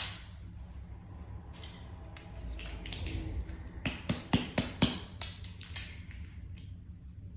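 Irregular sharp clicks and taps of a utensil and plastic sauce containers as hot sauce is mixed, about a dozen, bunched mostly in the middle.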